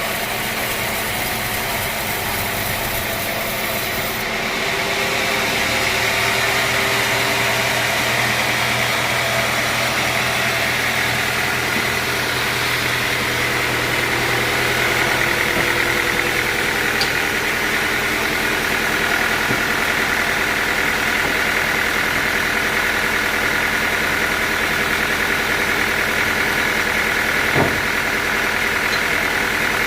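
Sawmill machinery running steadily, an engine-like drone with a higher whine over it, and a single sharp knock near the end.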